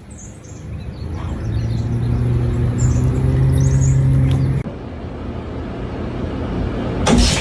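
A steady low motor hum, like a vehicle running, growing louder and then cutting off abruptly about four and a half seconds in; a lower rumble follows, with a short loud noisy burst near the end.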